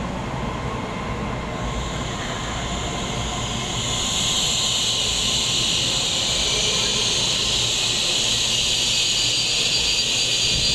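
Taiwan Railway EMU3000 electric multiple unit running in alongside the platform and slowing to a stop. A loud, high hiss builds about four seconds in and holds as the train comes to rest.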